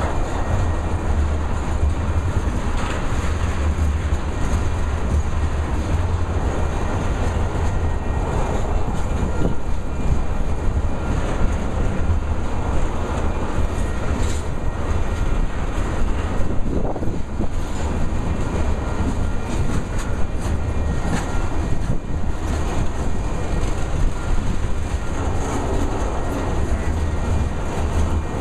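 Ethanol unit train of tank cars rolling past: a steady low rumble with wheels clicking and clacking over the rail joints.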